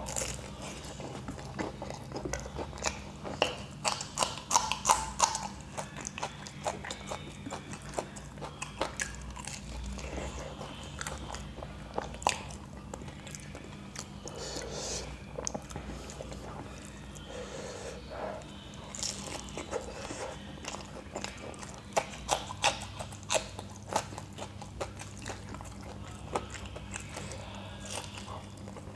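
Biting and chewing fried samosas: crisp crunches and chewing sounds all through, in two bursts of louder crunching.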